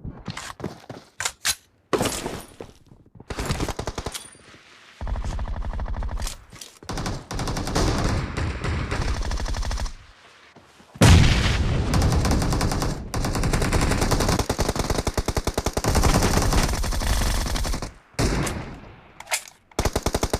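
Video-game automatic gunfire: scattered single shots in the first few seconds, then long bursts of rapid fire from about five seconds in, loudest at about eleven seconds, with short breaks between bursts.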